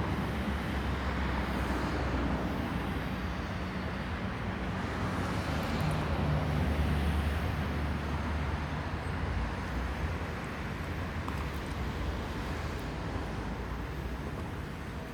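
Airbus A320neo's Pratt & Whitney geared turbofans with airflow noise: a steady rumble and hiss with a low hum, swelling a little about halfway through.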